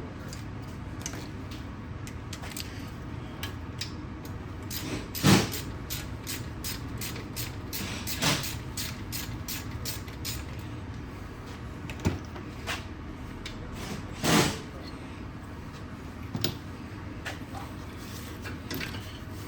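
Tools and brake parts being handled during a front brake caliper and disc job: a run of light clicks and clatter, with three louder knocks about five, eight and fourteen seconds in.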